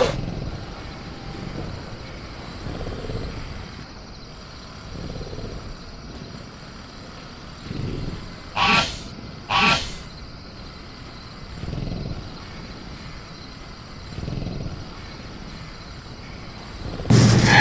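Designed velociraptor-in-a-cage sound effect over a steady jungle bed with crickets: soft low rumbles come and go, two short sharp noises land about a second apart near the middle, and a loud screech begins near the end.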